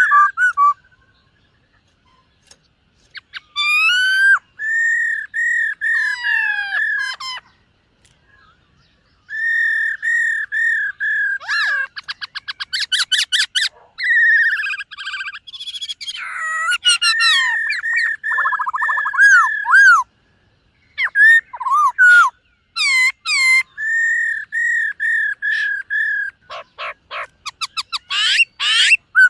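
Black-throated laughingthrush singing: loud phrases of repeated clear whistled notes and rapid trills, broken by short pauses.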